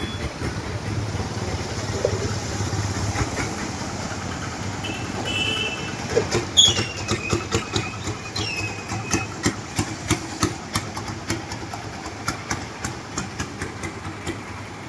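Motor vehicle engine running on a street with traffic. From about six seconds in, two short falling squeals and a run of regular sharp ticks, about two to three a second.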